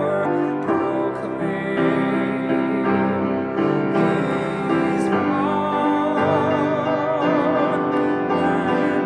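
A classically trained solo voice singing with vibrato over a piano accompaniment.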